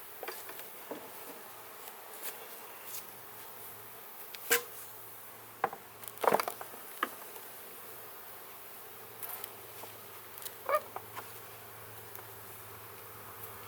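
Honeybees buzzing steadily around an open hive, with a few sharp knocks and clatters of wooden hive boxes being handled, the loudest about four and six seconds in and another near eleven seconds.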